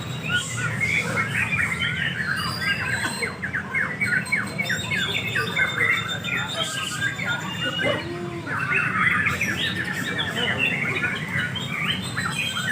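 Several oriental magpie-robins (kacer) singing against one another, trading fast, varied song phrases. The song is dense, with brief lulls about a third and two-thirds of the way through.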